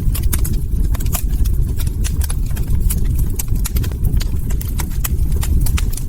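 Log fire crackling: many irregular sharp crackles and pops over a steady low rumble.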